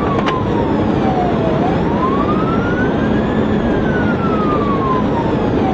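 Police siren wailing in slow sweeps, falling, rising and falling again about every four seconds, over steady road and engine noise from the pursuing cruiser. A short click sounds just after the start.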